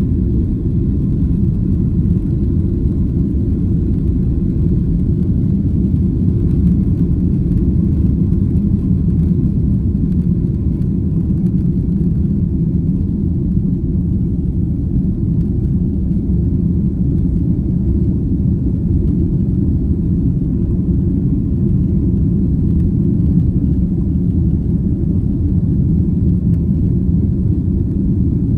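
Steady low drone inside the cabin of a Boeing 767-300 airliner: engine and airflow noise that stays even throughout.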